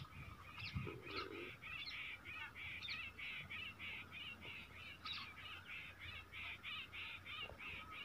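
Faint bird calls: a steady run of short, harsh calls repeating about three times a second.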